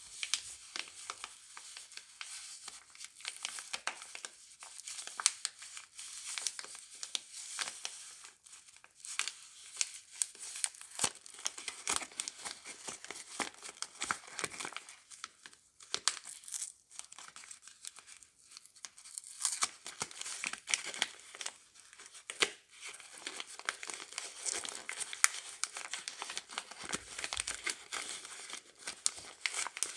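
Soap wrappers being crinkled and torn open by hand as bars of soap are unpacked, a continuous close crackle of rustling with many sharp little snaps.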